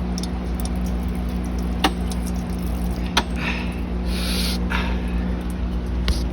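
Hands and a tool working a hot drain plug under a car, with a few sharp metallic clicks and short hissing bursts. Underneath runs a steady low mechanical hum.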